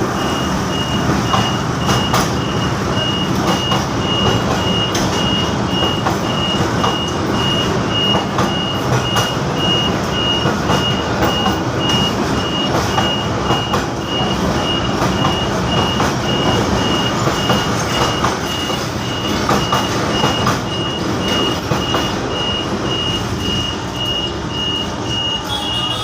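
Level-crossing warning alarm beeping steadily at one high pitch, about one and a half beeps a second, signalling an approaching train. Steady street and traffic noise runs beneath it.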